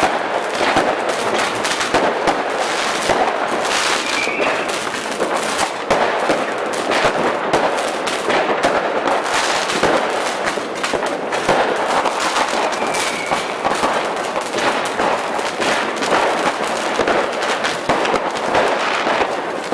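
Many firecrackers and fireworks going off at once: a rapid, unbroken crackling and popping of sharp cracks with no pause.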